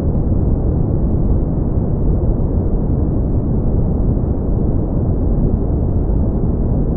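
Brown noise: a steady, deep rumbling hiss, strongest in the bass and dying away above the upper mids, with no change in level.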